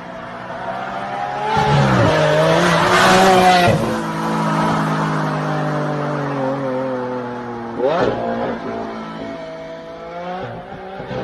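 A car's engine under hard acceleration passing close by, loudest about two to four seconds in, then pulling away up the road. About eight seconds in, the revs sweep sharply up again.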